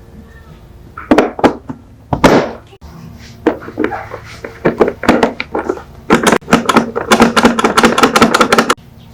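A series of sharp clicks and knocks, scattered at first, then a rapid run of about eight a second for two to three seconds near the end.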